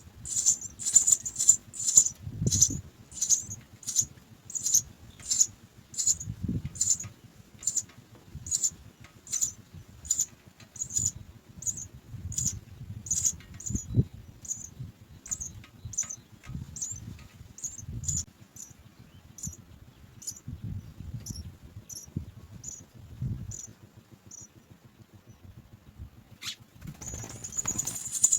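House sparrow nestlings cheeping: short high chirps about twice a second, slowing and dying away about 24 s in. Near the end a dense burst of calling starts. Soft low thumps are heard now and then.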